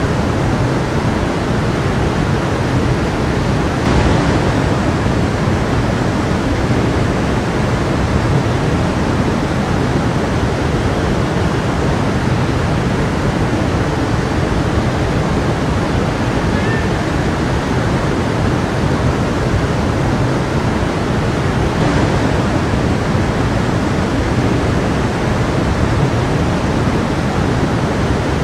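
A stream flowing steadily: an even, unbroken sound of running water.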